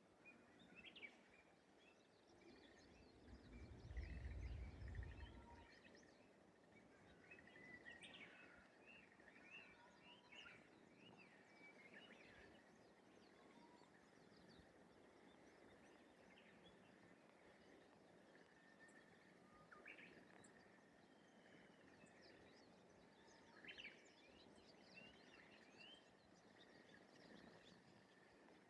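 Faint outdoor morning ambience of many small birds chirping and calling in short scattered notes, with a faint steady high tone underneath. A low rumble swells briefly a few seconds in.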